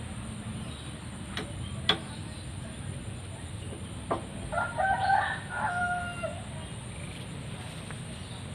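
A rooster crowing once: a single call of about a second and a half, about halfway through. Two sharp clicks come a couple of seconds before it.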